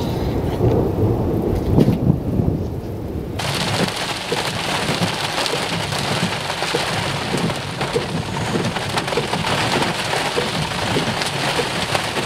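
Thunder rumbling for about the first three seconds, then a sudden change to steady heavy rain, with scattered drops tapping close by.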